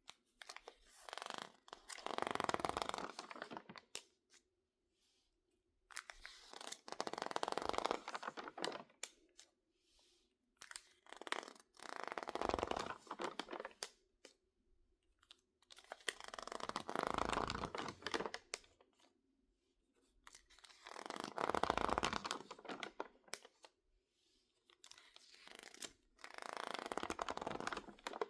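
Stiff, crinkled pages of a water-damaged magazine being worked by hand, crackling and crunching in six slow swells of two to three seconds each with quiet gaps between.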